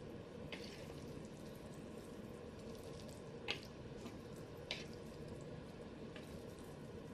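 A few faint, short wet clicks and squishes over a low steady room hum: instant noodles being mixed with chopsticks.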